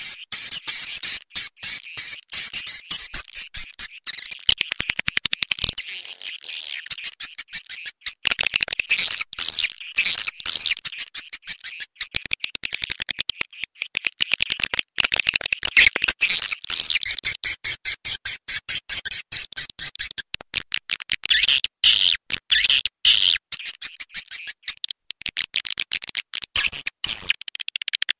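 Recorded edible-nest swiftlet calls: dense, rapid twittering chirps and clicks that never let up. This is a swiftlet lure sound, played to draw swiftlets into a nest house.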